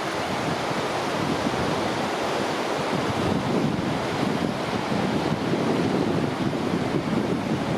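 Ocean surf washing on a beach, a steady churning rush, with wind buffeting the microphone.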